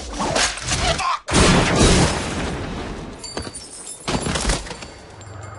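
Rapid gunfire in a close-range shootout: a dense run of shots, a sudden drop just after a second in, then a heavy burst that tapers off into scattered single shots.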